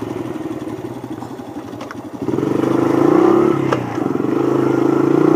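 Dirt bike engine running at low revs, then opened up about two seconds in, getting louder with its pitch climbing steadily.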